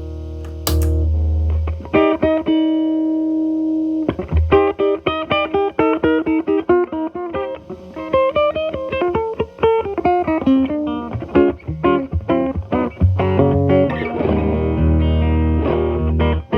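Telecaster electric guitar with single-coil pickups, played through an MI Audio Crunch Box distortion pedal at minimum gain into a Marshall Valvestate amp's clean channel, giving a light crunch. A chord rings out first, then from about four seconds in comes a fast run of single-note licks with bends, ending on chords.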